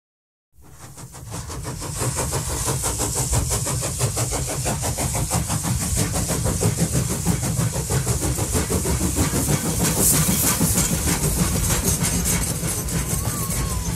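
A train running: a steady rumble with a fast, even clatter and a hiss over it, fading in from silence about half a second in.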